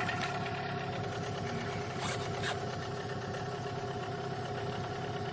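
Outboard boat motor running steadily at an even speed while being run in, with two light clicks about two seconds in.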